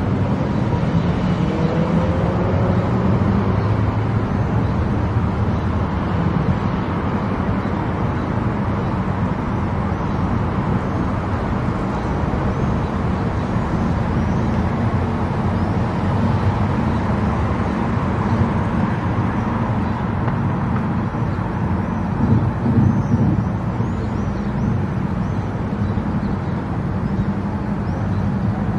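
Car driving at highway speed: a steady rumble of tyre and engine noise that stays even throughout.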